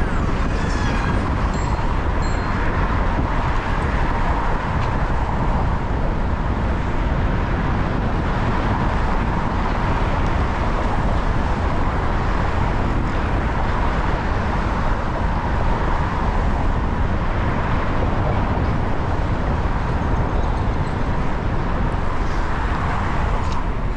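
Steady rush of wind and city traffic noise heard from a fixed-gear bicycle in motion, without a break.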